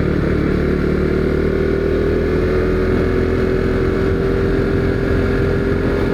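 Husqvarna Svartpilen 401's single-cylinder engine running at a steady cruise on the road, with wind rushing over the rider's unshielded helmet.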